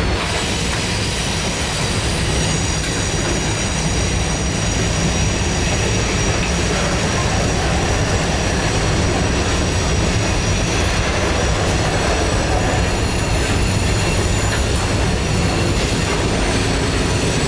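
Freight train cars, mostly covered hoppers, rolling past on a curve: a steady rumble of steel wheels on rail with a high, steady wheel squeal from the flanges rubbing in the curve.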